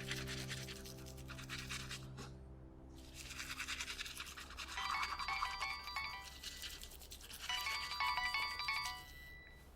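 Soft background music fading out, then a mobile phone ringing: a short electronic ringtone melody plays twice, starting about five seconds in and again about two and a half seconds later.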